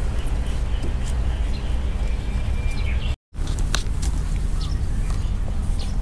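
Birds chirping in the background over a steady low rumble, with a few light clicks. The sound cuts out for a moment a little past halfway.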